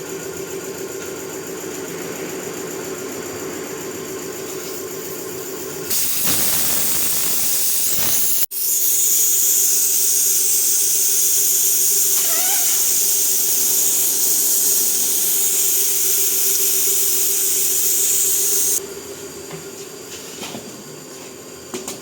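Loud hiss of rushing compressed air: a burst of about two and a half seconds, a sudden short break, then about ten seconds more before it cuts off. A steady machine hum with a droning pitch runs underneath before and after the hiss.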